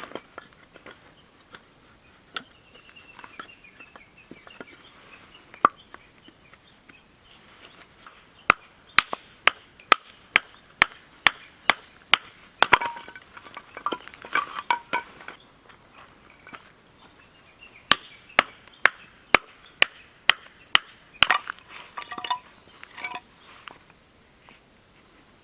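Firewood being chopped into kindling: sharp strikes about two a second in two runs, one a few seconds in and one past the middle, with lighter knocks and clinks between.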